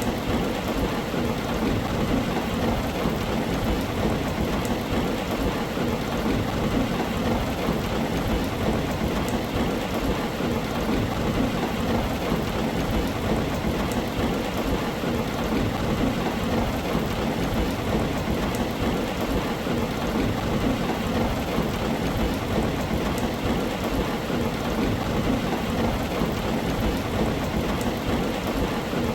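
Rain falling steadily on a tin roof, an even unbroken patter with a constant low rumble underneath.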